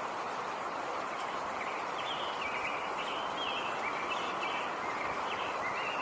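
Nature ambience: a steady rushing background noise, with a small bird singing short chirping phrases over and over from about two seconds in.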